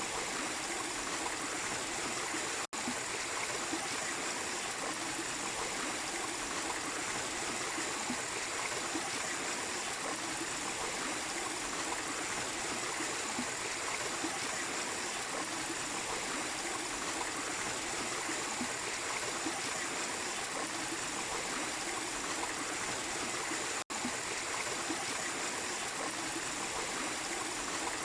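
A small waterfall with steady rushing and trickling water. The sound drops out for an instant twice, once near the start and once near the end.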